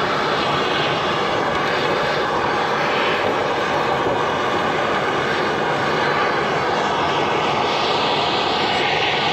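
A loud, steady rushing noise that does not change.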